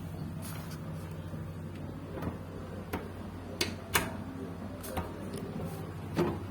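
A steady low mechanical hum with half a dozen sharp knocks and clicks scattered through it, the loudest about four seconds in.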